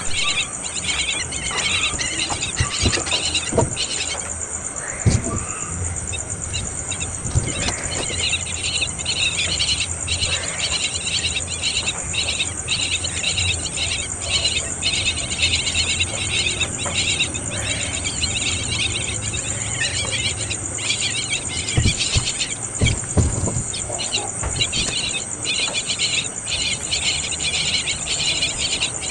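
Insects trilling steadily and continuously at a high pitch, with a faster, choppier chirring layer below it. A few soft knocks come near the start and again about three quarters of the way through.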